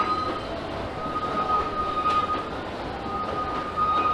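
Narrow-gauge trolley train running: a steady rumble with a high squeal that breaks off and comes back three times.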